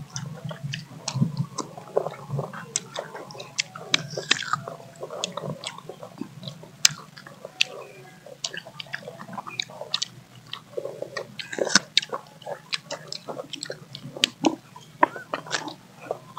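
People biting and chewing mango slices, with many irregular crisp crunches and smacks.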